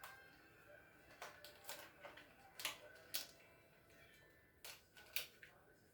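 Faint, irregular light clicks and taps, about seven spread unevenly, each short and sharp.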